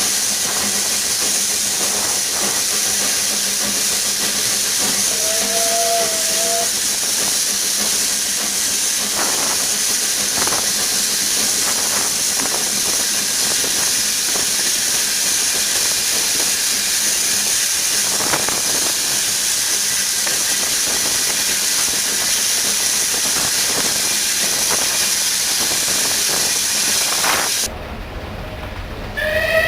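Steam locomotive hissing steam steadily, with scattered clicks and a short whistle about five seconds in. The hiss cuts off abruptly near the end, and a train whistle starts just after.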